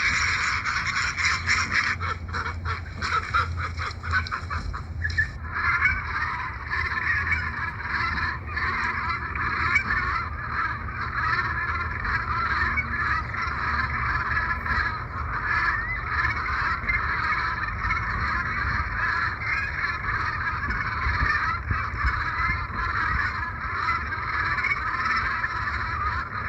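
A large flock of geese honking continuously, many calls overlapping into a dense chatter.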